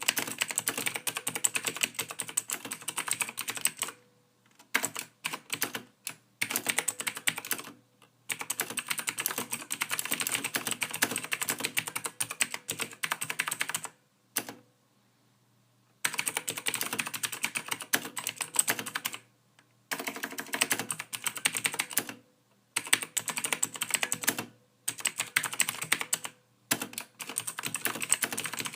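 Soft typing on a computer keyboard: rapid runs of key clicks lasting a few seconds each, broken by short pauses, the longest about two seconds just past the middle.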